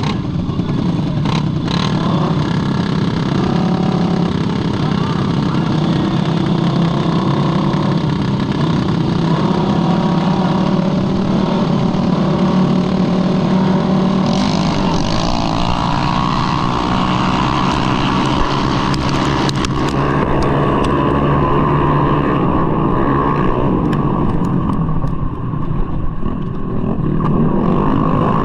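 Tuned single-cylinder engine of a 200cc bore-up Mahindra Rodeo scooter running hard under throttle while racing, heard from on board. The engine note eases off briefly about 25 seconds in, then picks up again.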